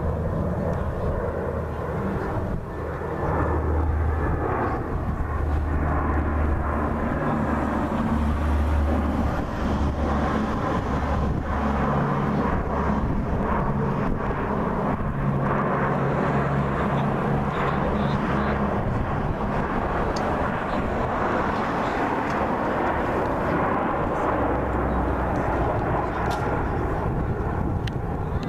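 Airplane engine noise, steady and loud throughout without a clear rise or fall.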